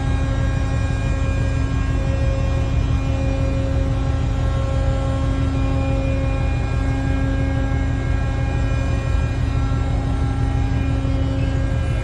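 Large engine or heavy machinery running steadily: a continuous low drone with several steady whining tones above it.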